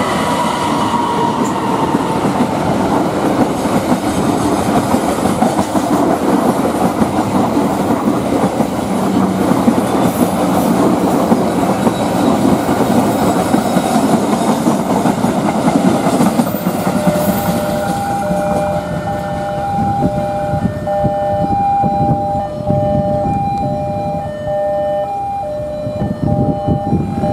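Diesel-hauled passenger train rolling past on a curve, with a steady rumble of wheels on rail. From about 18 seconds in, a level-crossing warning alarm sounds over it, repeating beeps that alternate between two pitches.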